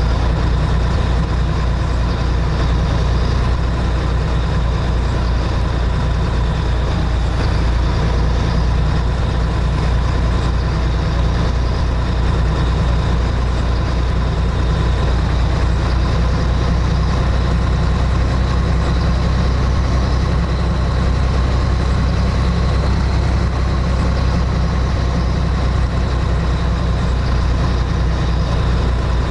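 Scania 113H truck's diesel engine running with a steady, unbroken low drone and a faint steady whine above it.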